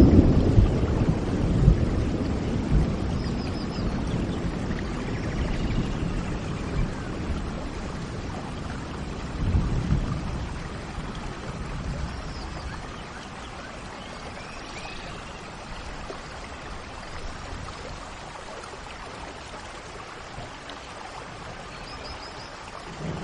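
Steady rain with rolls of thunder: a rumble at the start dies away over several seconds and a second one swells briefly about ten seconds in, and the rain grows quieter after it. Faint bird chirps sound now and then over the rain.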